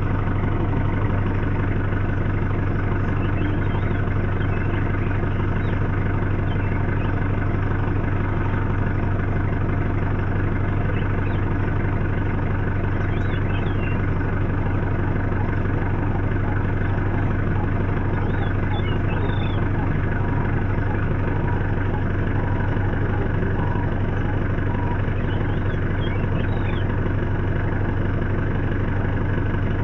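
Safari vehicle's engine idling steadily, a low even hum, with a few faint high chirps now and then.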